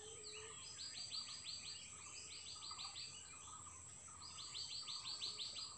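A bird singing faint, fast trills of repeated rising notes, in three runs of about a second each, over a faint steady outdoor background hiss.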